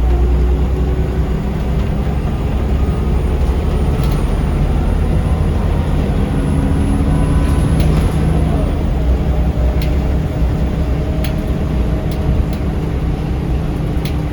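Scania L94UB city bus running, heard from inside the cabin: a loud low engine and drivetrain rumble whose whine shifts pitch a couple of times, with a few light rattles and clicks.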